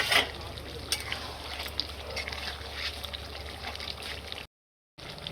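A sharp clank right at the start, then chicken curry with added water simmering and bubbling in the covered pot, with scattered small pops over a steady low hum. The sound cuts out for a moment near the end.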